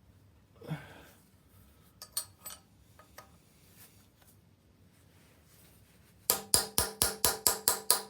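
Steel tool tapping the tab washers on the Morris Minor engine's flywheel bolts, knocking the locking tabs back down: a few light clicks, then a fast run of metallic taps near the end, about six a second, with the metal ringing.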